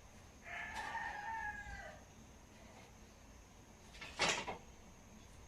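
A rooster crowing once, a call of about a second and a half. A short sharp noise, like a clatter, comes about four seconds in.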